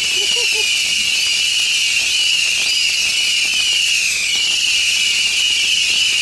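Consumer firework cake shooting streams of sparks: a steady hiss with a few faint crackles and short rising whistles, over a continuous high-pitched buzz.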